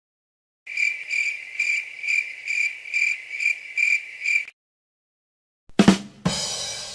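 Crickets-chirping sound effect: a high pulsing chirp repeating about two and a half times a second, stopping about four and a half seconds in. Then a short drum hit followed by a ringing cymbal that dies away.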